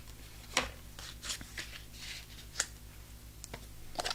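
A few light clicks and taps with short soft rustles of paper: stamping supplies and cardstock being handled on a craft desk.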